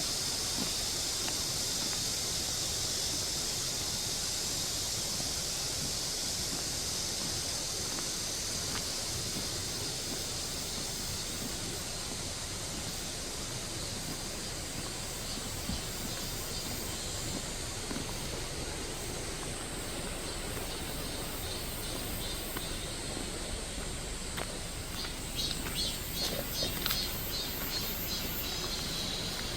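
Mountain stream rushing steadily over rocks, under a high, continuous buzzing chorus of cicadas. Near the end a cicada calls in rapid, even pulses.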